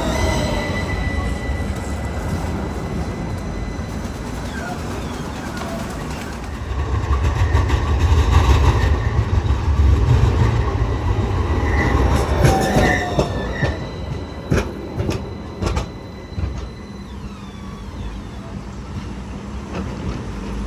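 Tram running on its rails: a low rumble that swells midway, with a thin steady squeal from the wheels and a run of sharp clicks over the track about two-thirds of the way through.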